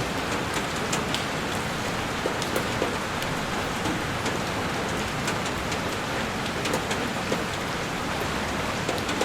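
Heavy rain falling on a window pane: a steady wash of rain with many sharp, scattered ticks of individual drops striking the glass.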